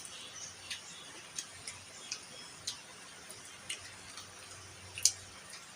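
Faint, irregular clicks and ticks of someone eating, about a dozen in a few seconds, the sharpest near the end.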